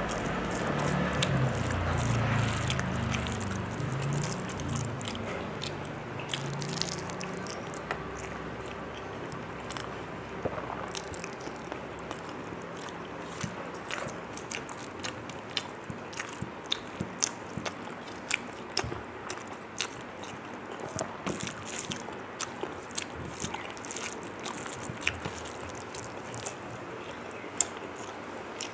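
A person chewing and eating a mouthful of food close to the microphone, with many short, wet mouth clicks and smacks at an uneven pace.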